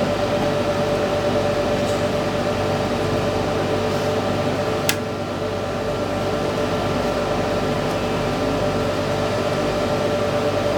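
Small rope-cutting machine running with a steady motor hum, with a single sharp click about five seconds in.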